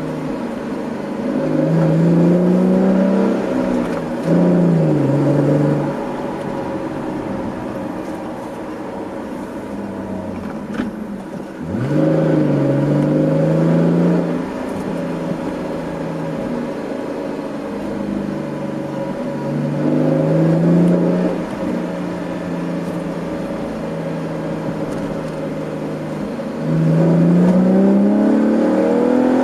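2013 Chevrolet Camaro's V6 through a GM axle-back performance exhaust, pulling hard about five times with the revs climbing each time, and cruising more quietly between pulls. The note is low and sounds mean for a V6.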